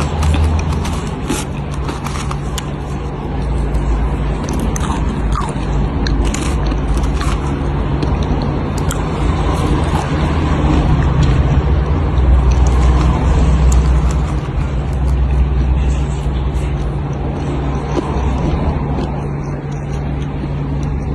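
Crunchy food being bitten and chewed close to the microphone: many short, crisp crackles, thickest in the first half, over a steady low hum.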